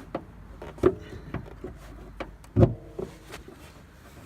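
Knocks and metallic clunks from the hood latch and hood of a pickup truck being worked open, several separate hits with a short ring after some of them, the loudest about two and a half seconds in.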